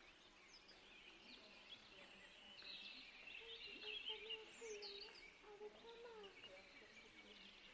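Quiet ambience with faint, distant bird chirping.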